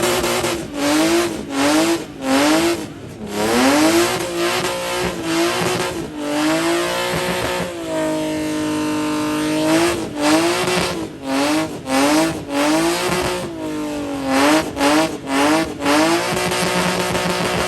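BMW E36 engine revved hard in quick repeated blips during a burnout, then held at high revs for about two seconds near the middle before blipping again, with its tires squealing.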